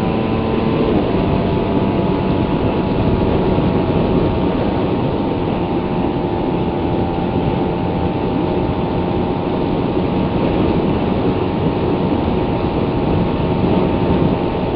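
Suzuki Raider 150's single-cylinder four-stroke engine running at a steady cruise under way, its pitch holding level, mixed with wind and road noise.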